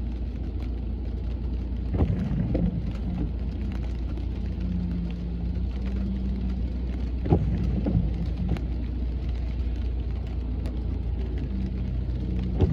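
Steady low rumble of a car driving in the rain, with rain noise over it and a few sharp knocks, about three in all.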